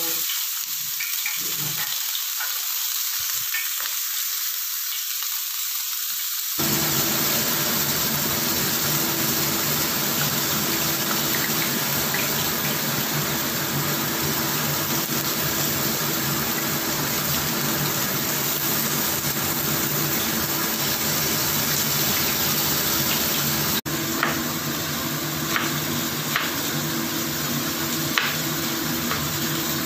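Beef satay skewers sizzling as they fry in a non-stick pan: a steady hiss, with a low hum joining about six seconds in. Near the end come a few sharp knife taps on a cutting board.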